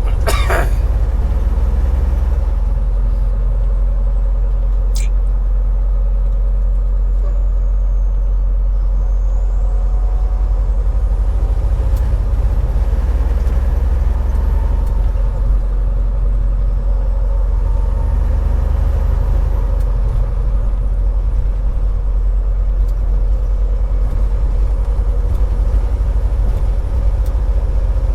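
Semi truck's diesel engine and road noise droning steadily inside the cab, with a brief burst of noise right at the start.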